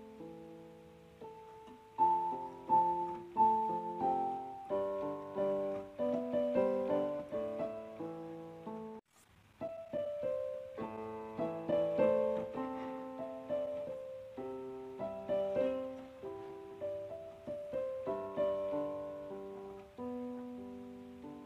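Soft solo piano music, a slow melody over sustained chords, with a brief gap about nine seconds in.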